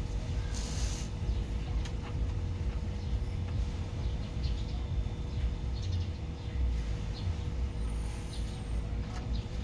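Vehicle engine running steadily with a low rumble and a faint, steady whine.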